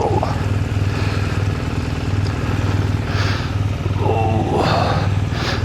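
Motorcycle engine idling steadily while being warmed up from cold.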